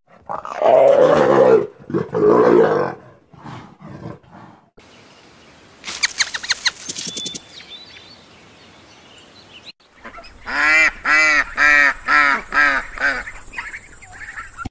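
Animal calls one after another: two long, low cow moos at the start, a quick run of clicking sounds around six seconds in, then about seven short, quick duck quacks.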